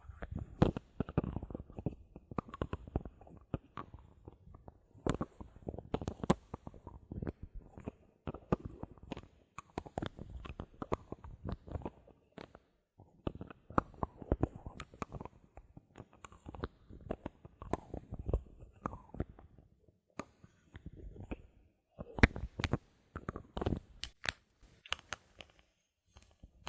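Bottle caps handled close to the microphone: clusters of sharp clicks, taps and crackly rubbing, with a few short pauses.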